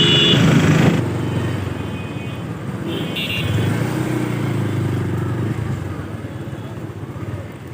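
Motorcycle engine running while being ridden slowly, its note rising in the middle and then easing off. Two brief high tones sound, one at the start and another about three seconds later.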